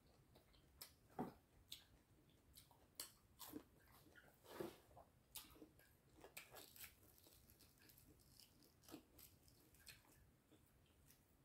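Faint chewing and mouth sounds of a person eating a meal by hand, with scattered short soft clicks.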